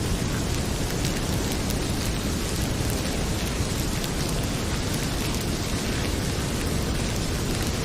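Heavy rain pouring steadily, with the scattered small crackles and pops of a wood fire burning in a fireplace.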